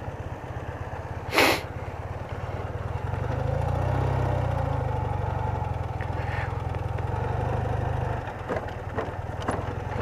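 BMW R80RT's air-cooled boxer twin running at low speed, its note picking up about three seconds in and easing off again around eight seconds. A short loud hiss cuts across it about a second and a half in.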